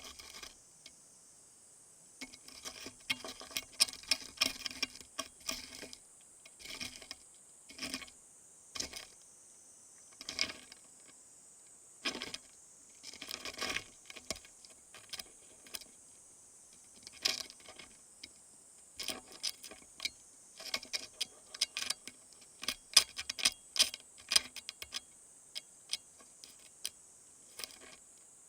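Two stag beetles grappling, close up: irregular sharp clicks and short scratchy runs from their legs and mandibles scraping and knocking against each other and the surface, over a steady faint high hiss.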